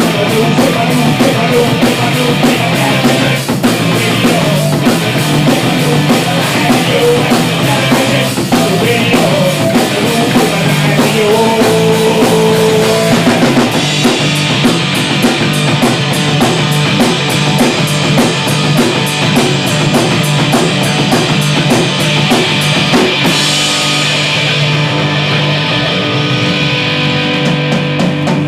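Loud rock music played by a band on drum kit and electric guitar. About halfway through the drums move to fast, even cymbal strokes, and near the end the song thins out.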